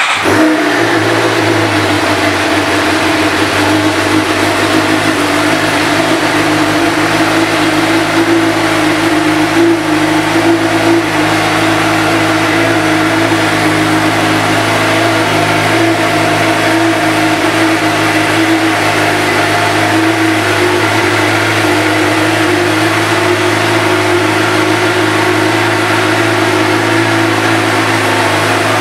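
2016 Suzuki GSX-R750's inline-four engine starting up and settling into a steady idle, the engine speed wavering slightly around ten seconds in.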